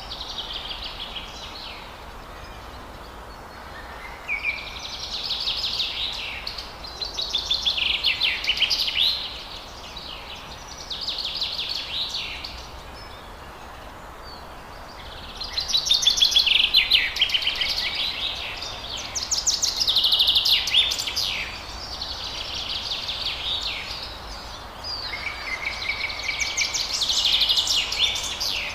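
Forest birds singing in repeated phrases of rapid, trilling chatter, each lasting a second or two with short pauses between, over a steady background hiss.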